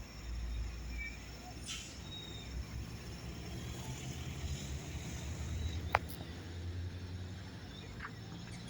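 Outdoor ambience: a steady low rumble with a few faint bird chirps, and one sharp click about six seconds in.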